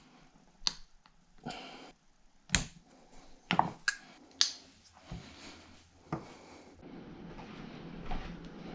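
Handling of small metal engine parts or tools on a workbench: about seven sharp, irregular clicks and light knocks over the first six seconds, then a steady noise that comes in and grows near the end.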